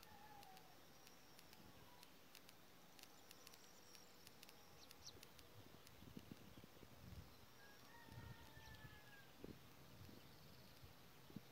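Faint bird calls over a near-silent countryside background: a few short whistled notes, and a longer slightly falling whistle about eight seconds in, with scattered soft clicks and low thuds.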